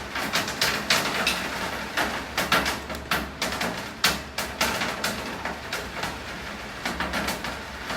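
Rain, with heavy drops tapping irregularly and sharply on a hard surface, several taps a second over a steady rain hiss and a low hum.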